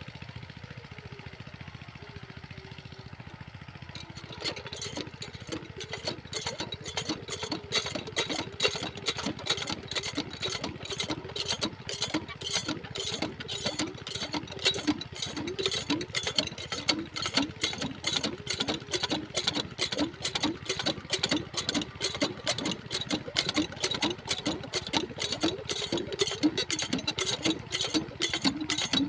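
Diesel water-pump engine running. A steady hum gives way, about four seconds in, to a regular chugging of about three beats a second.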